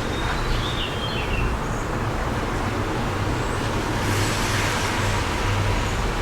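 Wind and steady suburban traffic noise with a low rumble. A bird chirps briefly in the first second or so, and a car passes about four seconds in.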